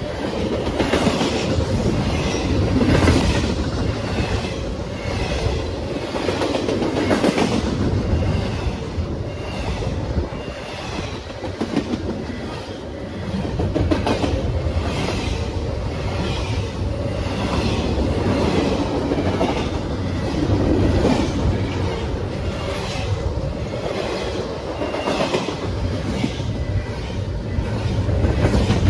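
A train's cars rolling past, wheels clacking over the rail joints in a steady repeating rhythm over a continuous rumble.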